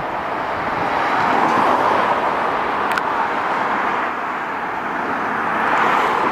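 Road traffic noise: a steady rush of tyres and engines from passing vehicles, swelling slightly twice, with no siren.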